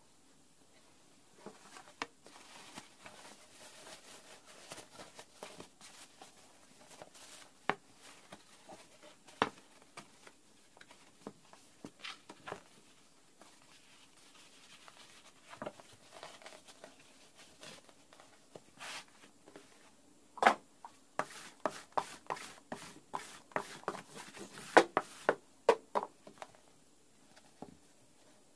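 Irregular light clicks and taps of objects being handled by hand, sparse at first and coming thick and fast for several seconds near the end.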